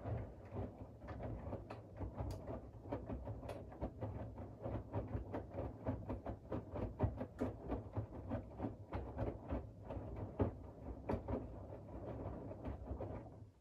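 Siemens iQ700 WG56B2090 washing machine turning its drum during the wash: a steady low motor hum, with laundry and water sloshing and tumbling in many irregular knocks. It stops suddenly near the end.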